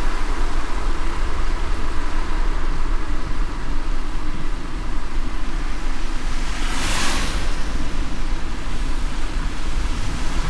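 Car driving on a wet road in light rain: a steady low road rumble under an even hiss of rain and tyre spray. About seven seconds in, a brief swell of hiss rises and falls.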